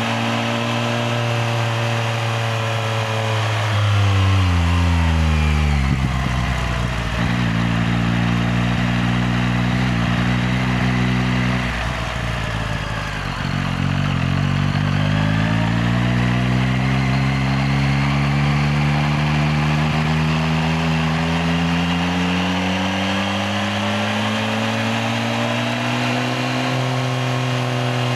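Yamaha XSR900's three-cylinder engine running as it is ridden: the engine note falls as it slows about five seconds in, runs low, then climbs as it accelerates past the middle and eases off again near the end, over a rush of wind and road noise.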